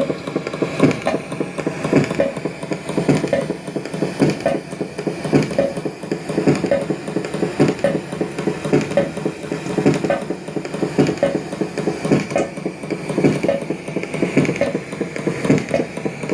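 Mechanical knocking and grinding picked up from 18 m underground, with unevenly spaced knocks about twice a second over a steady grind. The recorders take it for tunnel-digging machinery.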